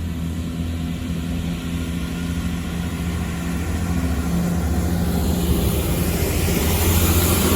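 Great Western Railway Class 166 diesel multiple unit pulling out of the station. Its diesel engines run steadily under power and grow gradually louder, with a rising hiss in the last couple of seconds.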